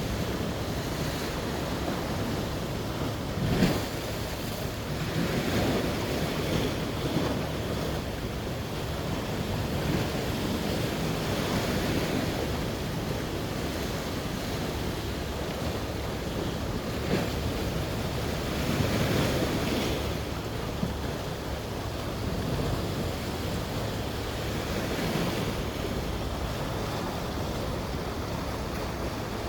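Sea waves breaking and washing on the shore, swelling and easing every few seconds, with wind rumbling on the microphone.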